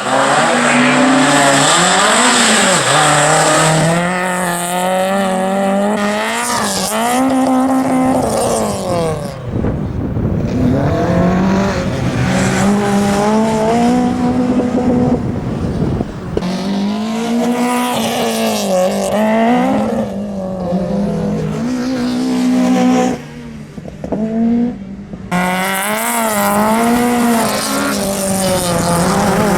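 Citroën AX GTI's four-cylinder petrol engine revving hard through a slalom, its pitch climbing and falling again and again with throttle and gear changes, with tyres squealing at times. About three quarters through the engine note briefly drops away as the driver lifts off.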